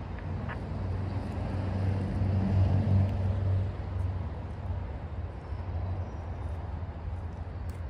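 Diesel locomotive engine rumbling as a train goes by, swelling to its loudest a few seconds in and then easing off.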